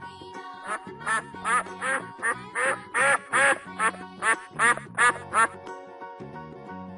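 Duck quacking in a rapid run of about a dozen quacks that stops about five and a half seconds in, over children's background music.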